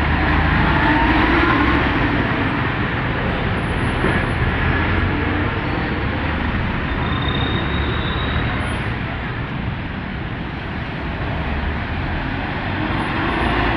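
Road traffic at a jammed crossing: the engines of trucks and other vehicles running and moving past in a steady din, with a low engine rumble heaviest in the first couple of seconds.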